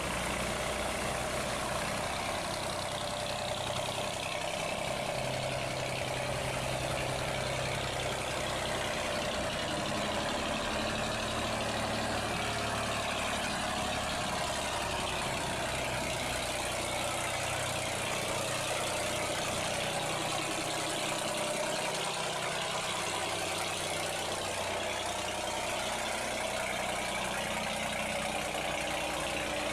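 A boat's engine running steadily at an even pitch, over a continuous rush of water.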